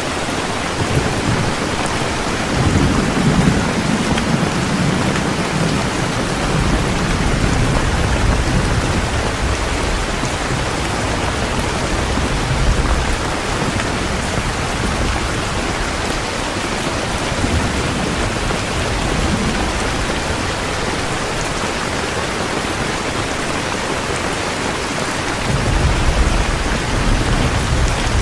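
Heavy rain falling steadily, with low rolls of thunder rumbling through it, one in the first few seconds and another starting near the end.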